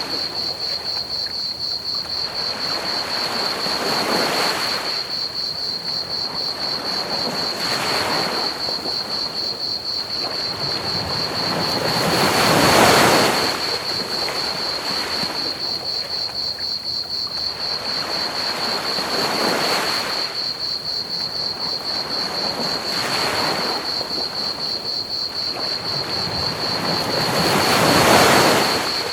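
Ocean waves washing onto a beach, swelling and falling every few seconds, with two larger breakers about halfway and near the end. Beneath them runs a steady high trill of crickets and an even hiss of pink noise.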